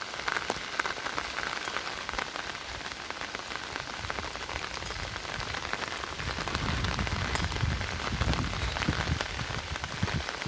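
Steady rain falling, a dense patter of drops. A low rumble joins in from about six seconds in.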